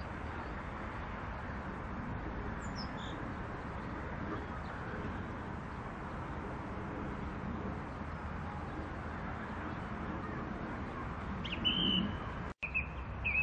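Steady outdoor background noise with a few faint bird chirps about three seconds in, and short high-pitched chirps near the end, broken by a momentary cut in the sound.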